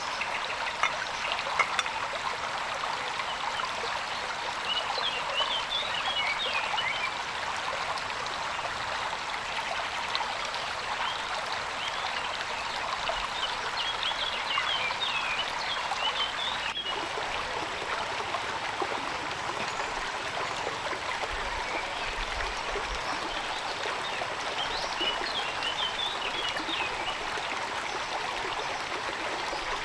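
Steady rain with running, trickling water. Three times, about ten seconds apart, an animal gives a short run of high chirping calls.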